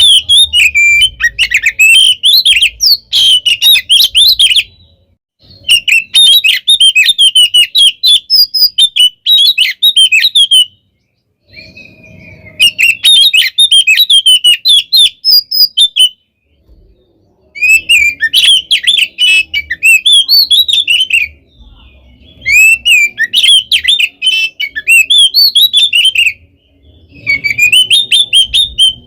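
Oriental magpie-robin (kacer) singing loud, fast, varied phrases of chirps and whistles in its aggressive fighting-style song. The song comes in about six bursts of a few seconds each, broken by short pauses.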